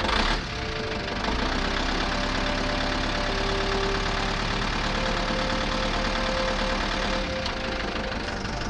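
A small engine running steadily with a fast, even pulse, after a short loud burst right at the start.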